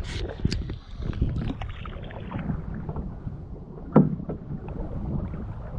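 Kayak paddling: paddle strokes and water splashing around the boat, with a sharp knock about four seconds in.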